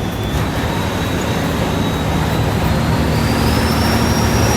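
Heavy truck's diesel engine running under way, a steady low rumble that grows slightly louder, with a thin high whine that rises in pitch about three seconds in as the engine gains speed.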